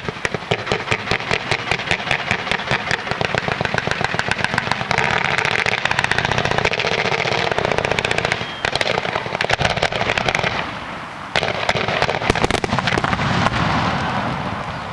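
Fireworks display: a rapid, continuous string of sharp bangs and crackling, many reports a second, like machine-gun fire. It briefly thins out about ten seconds in, then picks up again and tails off near the end.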